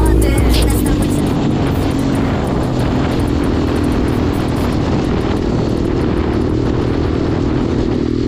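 Minirocket Superpit 125 pit bike's single-cylinder engine running under way, its note dropping after about a second and climbing again over the later seconds.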